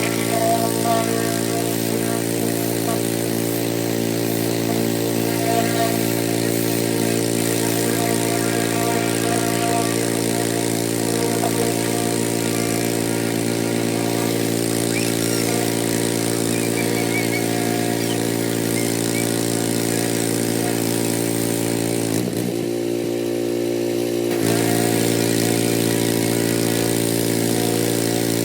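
An engine running steadily at a constant speed, its pitch briefly dipping and recovering about 22 seconds in.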